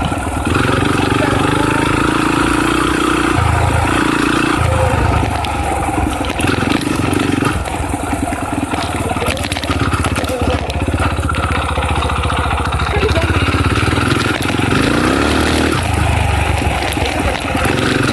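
Dirt bike engine running under way, its revs stepping up and down repeatedly with the throttle and gear changes.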